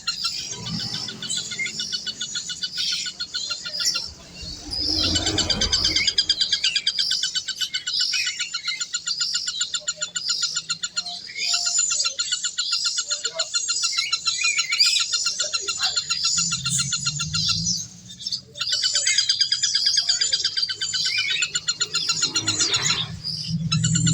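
Birds chirping in long runs of rapid repeated high notes, each run lasting several seconds, with two short breaks.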